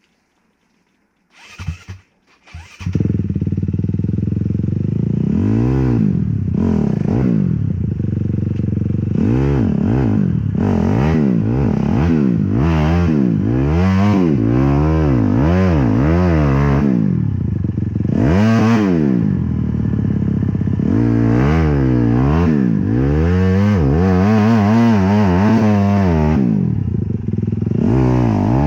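Honda CRF250 dirt bike's single-cylinder four-stroke engine starting up about three seconds in after a couple of short bursts, then revved up and down over and over, about a dozen times, as the rider tries to power the stuck bike out.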